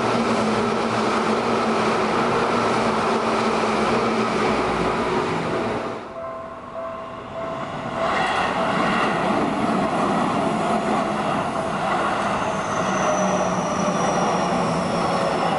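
Electric commuter trains passing close by at speed: a steady rumble of wheels on rail and motor noise, broken by a cut about 6 s in. After the cut a Seibu train runs through a level crossing, the crossing bell ringing steadily. Near the end a high whine falls slowly in pitch.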